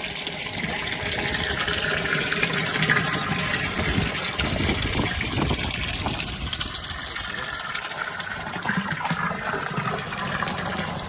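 Well water gushing and splashing steadily, slightly louder a few seconds in.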